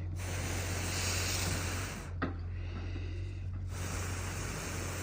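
A person blowing long, hissing breaths onto smouldering tinder fungus to fan the ember into flame. There are three long blows with short pauses between them, and a small click just after the first blow.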